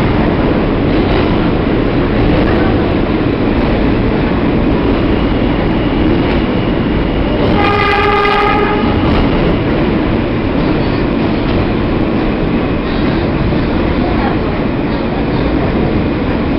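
New York City subway train in motion, a steady loud rumble of wheels on rail, with one horn blast of about a second and a half roughly eight seconds in.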